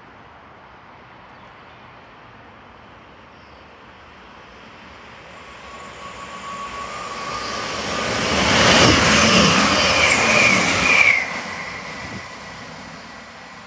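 Class 158 diesel multiple unit approaching and running through the platform, its engine and wheels on the rails swelling to a loud rush and then dropping away sharply after about eleven seconds as it passes. A thin whining tone rides over the noise, first lower as it approaches, then higher as it passes.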